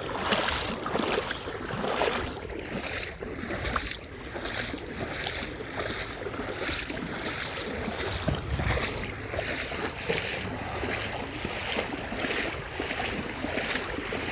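Footsteps crunching across a soft river sandbar at a steady walking pace, about two steps a second, with wind on the microphone.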